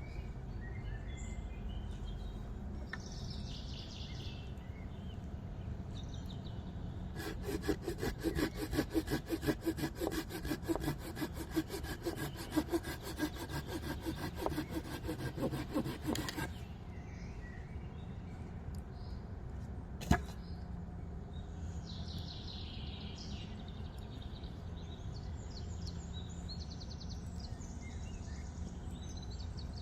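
Hand saw cutting through wood in rapid back-and-forth strokes for about nine seconds, then stopping. A single sharp knock follows a few seconds later, with birds chirping.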